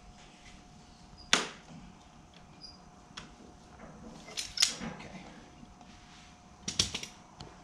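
Sharp knocks and clicks from forcing an ATV drive chain's master link into place with a makeshift tool: one loud knock about a second in, then clusters of smaller knocks around the middle and near the end.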